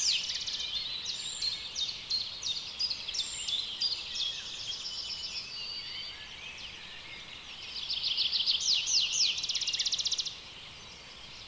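Birds singing in rainforest ambience: rapid series of high, quickly falling whistled notes over a steady hiss. Near the end comes a loud run of falling notes that turns into a fast trill and cuts off suddenly.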